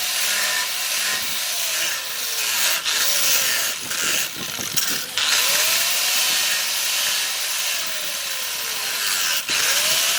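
Electric grinder working steel, with a steady grinding hiss over a motor whine whose pitch sags slowly and climbs back up a few times.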